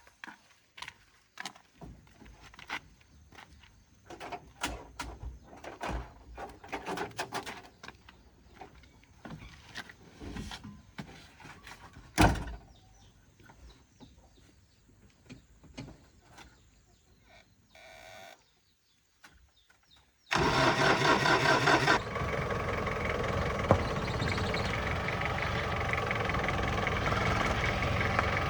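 Scattered clicks and knocks, one louder knock about halfway through. About two-thirds in, the 2008 Ford Ranger's engine starts suddenly, running faster for a moment and then settling into a steady idle.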